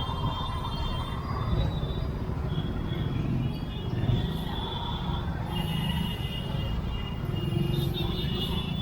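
Busy city street traffic heard from a moving motorbike: a steady low rumble of engine and road noise, with brief high-pitched tones from other traffic coming and going.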